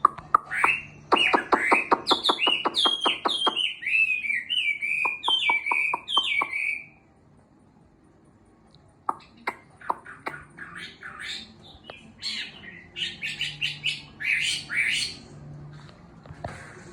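Chinese hwamei (melodious laughingthrush) singing: a fast run of repeated falling notes for about seven seconds, a pause of about two seconds, then a second bout of varied phrases. The bird is coming back into song after its moult.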